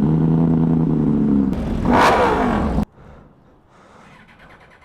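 A motor vehicle engine running steadily. About two seconds in it swells and then drops in pitch, like a rev or a vehicle passing. It cuts off abruptly, leaving a much quieter stretch.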